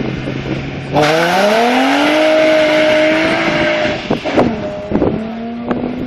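Car engine idling, then launched hard from a standing start: the revs climb quickly and hold high, drop at a gear change about four seconds in, then climb again more quietly as the car pulls away.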